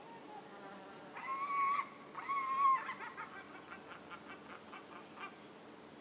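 A bird gives two drawn-out nasal calls, the second louder, then a run of short notes that spread out and fade.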